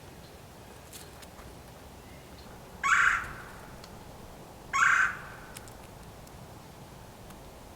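Blue jay giving two harsh jeering calls, about two seconds apart.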